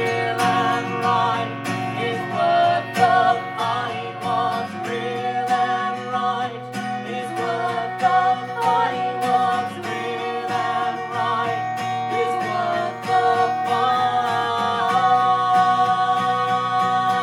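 Live acoustic music led by plucked guitar, with a wavering melody line above it that settles into one long held note near the end.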